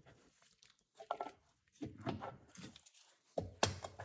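Scattered light clicks and rustles of hands fitting a small carburetor linkage part onto a lawn mower engine's governor vane, with a few brief handling sounds separated by quiet gaps and a sharper click near the end.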